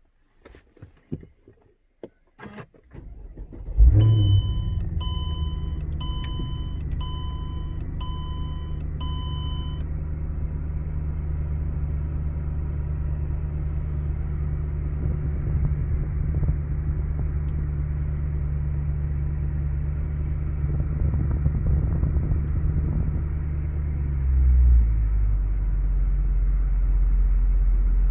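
A few clicks, then the 6.2-litre V8 of a 2007 Mercedes E63 AMG cold-starts about four seconds in with a brief flare and settles into a high cold idle. An electronic chime beeps six times, about once a second. Near the end the idle drops to a lower, steadier note. The exhaust has straight pipes in place of the secondary cats and an x-pipe in place of the resonators.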